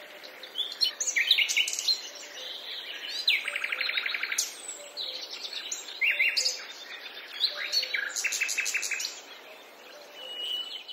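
Several forest birds singing and calling over one another: short chirps at different pitches, with a fast trill about three seconds in and again near eight seconds.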